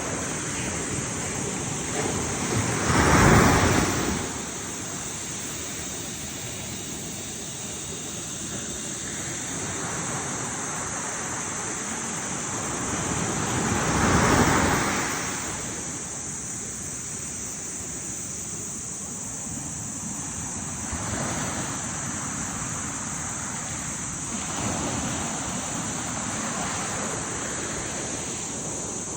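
Ocean waves breaking on a beach, a steady wash of surf. Two larger waves crash about 3 and 14 seconds in, with smaller ones later.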